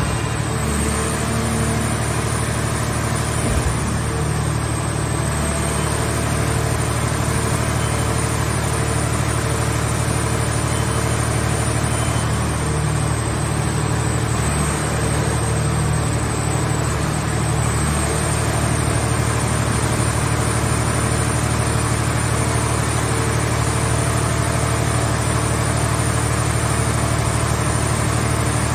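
Scrap car shell baler's power unit running steadily: a constant low engine hum with a faint high whine above it.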